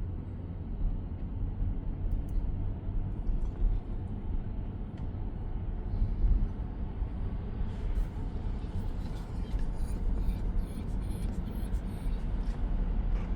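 Steady low rumble of tyre and road noise inside the cabin of a 2023 Tesla Model X on the move, with no engine note. From about eight seconds in, light clicks and rustling come in over it.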